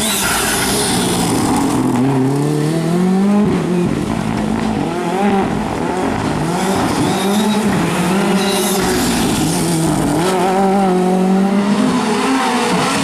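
Rally car engine at high revs, its pitch climbing and dropping over and over as it accelerates, changes gear and lifts off.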